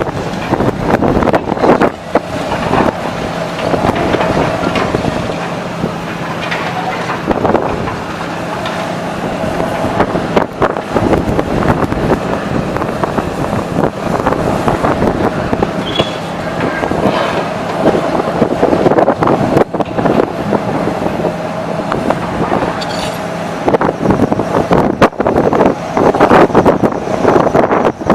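Demolition machinery at work: a diesel engine runs steadily under repeated knocking, crunching and clattering of debris being broken and dropped.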